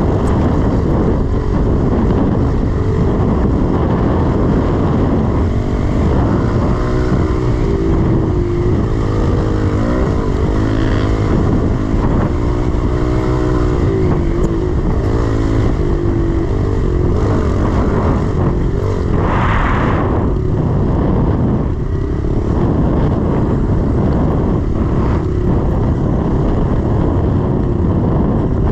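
Small 110cc pit bike's single-cylinder four-stroke engine running hard around a motocross track, its pitch rising and falling again and again with the throttle and gear changes.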